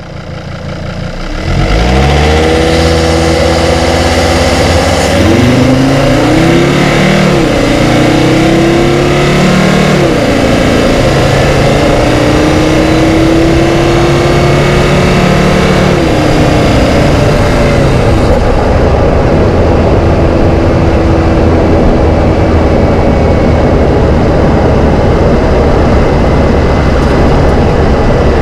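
Polestar-tuned 2.4-litre five-cylinder turbo diesel of a 2010 Volvo XC90 D5 under hard acceleration from a standstill, heard from inside the cabin. The engine note climbs and drops back at each gear change, four or so times in the first fifteen seconds, then settles into steady cruising with road noise.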